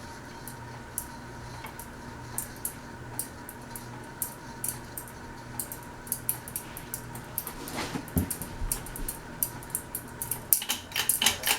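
Light metallic clinks and rattles, sparse at first and coming thick and fast near the end, over a steady electrical hum.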